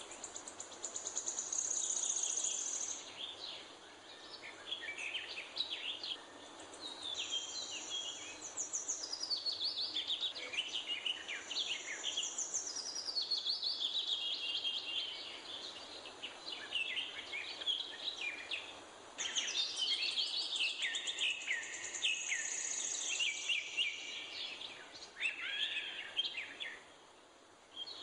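Wild songbirds singing and chirping, many quick overlapping chirps and trills, with a high thin trill that comes and goes several times, over a faint steady background hiss.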